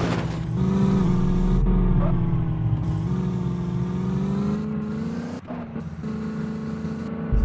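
Tractor diesel engines running hard under load, with a steady drone that wavers slightly in pitch and a few brief knocks about two-thirds of the way through.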